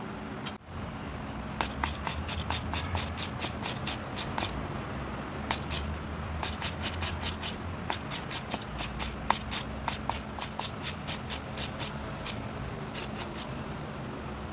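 Runs of light, sharp clicks, several a second, from small metal parts or a hand tool being worked, over a steady low hum.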